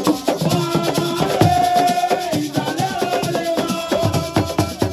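Live assiko music: fast hand-drum beats and shakers rattling, with a voice holding a long sung note in the middle.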